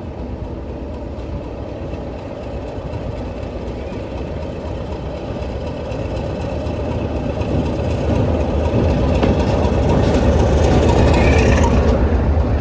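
Diesel locomotive engine running with a deep rumble, growing steadily louder as the train draws nearer.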